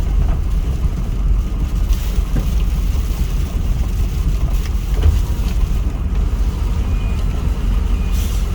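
Strong wind buffeting the microphone, a loud, unsteady low rumble.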